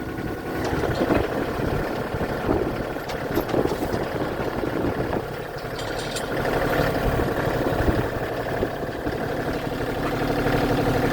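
Bobcat CT2025 compact tractor's diesel engine running steadily at idle, a little louder near the end.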